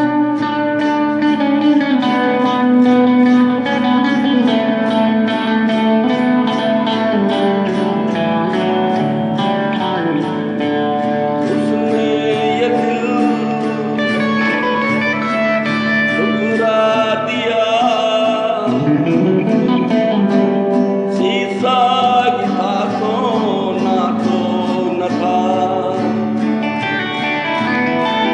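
Unplugged acoustic guitar music with a steady, evenly picked rhythm.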